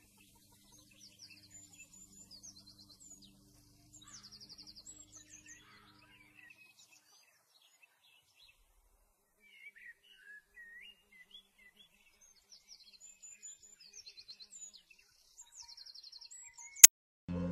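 Songbirds singing: scattered high chirps and short, rapid trilled phrases, with a faint low hum in the first few seconds. A sharp click comes near the end, and music starts right after it.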